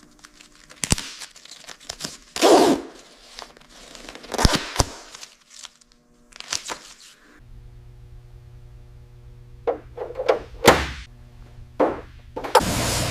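A series of irregular thunks, clicks and short scraping noises, like parts being handled and fitted. A low steady hum joins about halfway, and a loud steady rushing noise starts just before the end.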